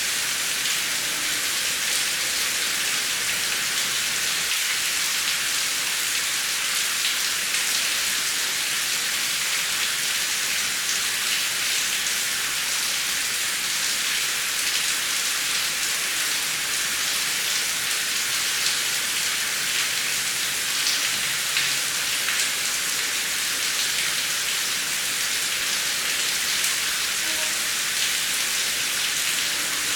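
Heavy rain falling steadily: an even hiss with a fine patter of individual drops.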